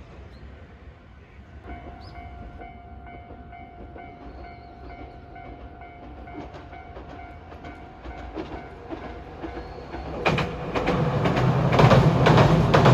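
A train passing close by. A faint steady tone is heard at first, then from about ten seconds in a loud rumble and rapid clacking of wheels over the rail joints builds up.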